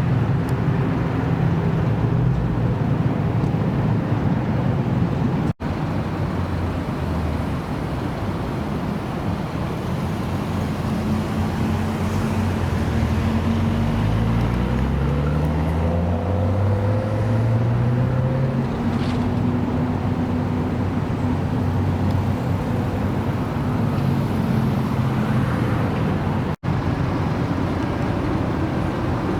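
Car engines running in a busy parking area. Between about 12 and 18 seconds in, one engine rises steadily in pitch as a car accelerates away. The sound breaks off for an instant twice, at cuts between clips.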